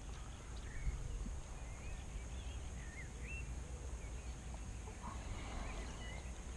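Birds calling in the distance: a scatter of short, high chirps and whistles over a low, steady rumble.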